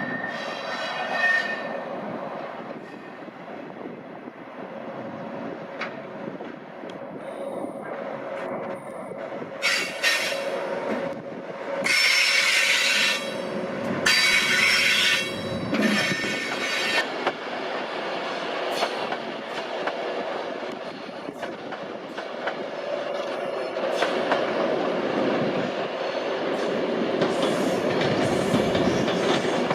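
Train moving through a station: a high wheel squeal at the start, loud bursts of screeching about halfway through, and a steady rumble of wheels on the rails, with some clacking over the rail joints.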